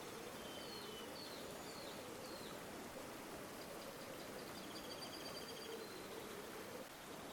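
River water flowing steadily, with a small bird giving several short chirps in the first few seconds and a quick trill about five seconds in.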